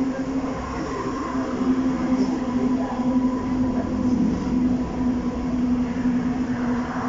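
Metro train running between stations, heard from inside the carriage: a steady rumble with a constant low hum and a fainter higher whine from the drive.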